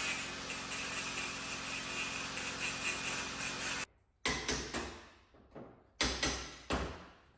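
A steady machine noise with a low hum cuts off abruptly about four seconds in. It is followed by two quick clusters of hammer strikes on bodywork, each one sharp and fading fast.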